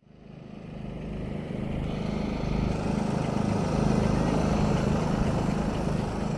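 A vehicle's engine running steadily, fading in over the first second or so.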